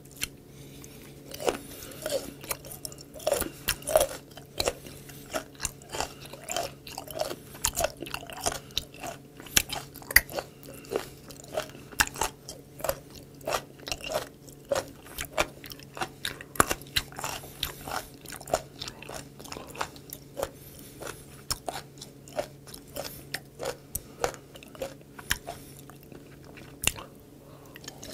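Close-miked chewing of crunchy raw seafood: irregular crisp crunches, a few a second, as firm, cartilage-like flesh is bitten and ground between the teeth, easing briefly near the end.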